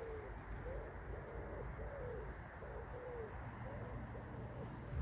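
A pigeon cooing: a run of short, soft coo notes, about two a second, over a steady low rumble, stopping shortly before the end.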